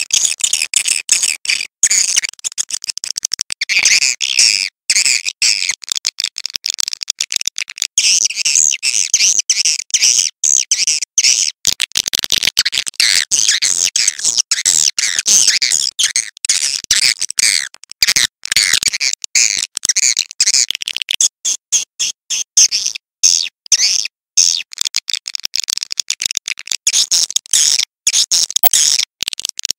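Swiftlets twittering in a dense, unbroken run of high, rapid chirps with constant tiny breaks.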